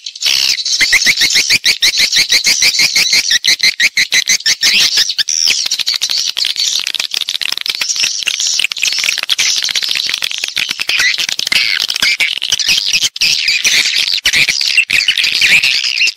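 Swiftlets calling in a dense stream of high chirps: rapid, evenly spaced clicking calls for the first few seconds give way to a thicker, continuous twitter. It is a swiftlet-house lure recording of calling and roosting sounds.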